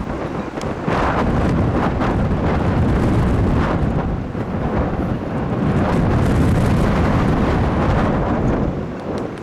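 Strong wind gusting against the microphone, a loud low rumbling buffet that swells in two long gusts.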